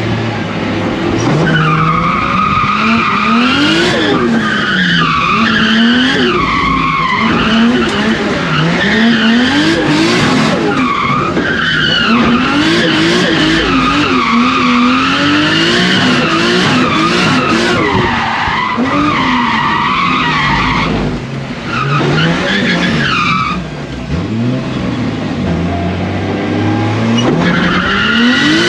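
Nissan 180SX drift car driven hard, its engine revving up and falling back again and again as it slides, with tyre squeal. The engine note drops off briefly twice about three quarters of the way through.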